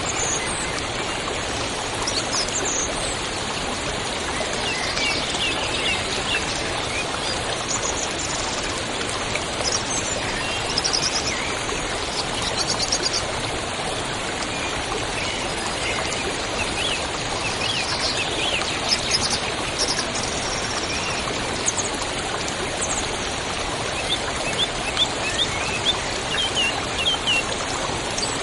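Steady rush of running water, like a stream, with small birds chirping and calling in short bursts over it.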